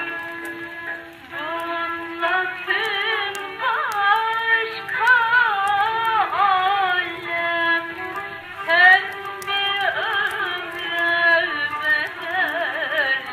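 Turkish art music (Türk sanat müziği) played from a gramophone record: a singer with heavy vibrato over sustained instrumental notes, sounding narrow and muffled with no high end. Faint scattered clicks sit above the music.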